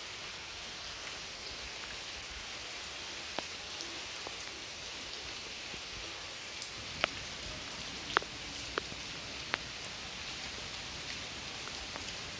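Steady rain falling, an even hiss with a few louder single drops hitting nearby surfaces.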